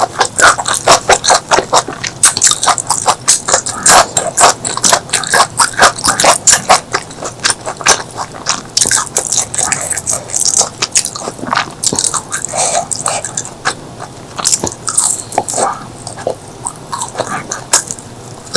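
Close-miked eating: rapid crisp crunching and chewing, as of raw green vegetables and stink beans being bitten and chewed, dense in the first half and sparser later.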